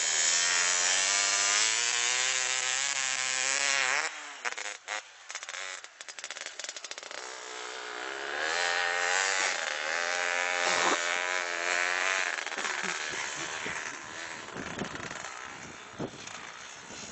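Snow-converted motorcycle's engine revving, its pitch climbing steadily for about four seconds and then stopping abruptly. After scattered knocks it revs up again for a few seconds, then gives way to irregular rumbling and knocks.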